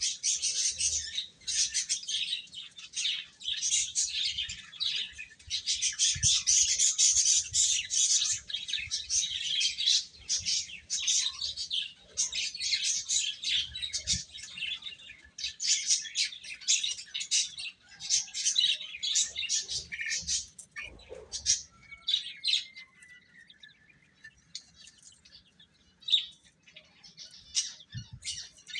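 Baby chicks peeping in a dense, continuous chorus of high, short chirps, thinning to scattered single peeps about two-thirds of the way through.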